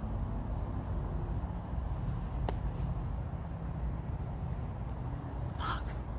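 Crickets trilling steadily in one unbroken high tone over a low outdoor rumble, with a single sharp click about two and a half seconds in and a brief higher-pitched sound near the end.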